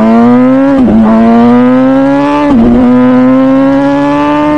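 MV Agusta Brutale 1000RR Nurburgring's 998cc inline-four running through its full titanium Arrow exhaust under acceleration. The revs climb steadily in each gear and drop sharply twice, about a second in and again past the midpoint, as it upshifts.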